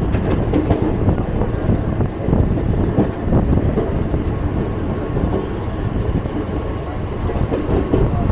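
A moving train's running noise heard from on board: a steady rumble and rattle of wheels on the track.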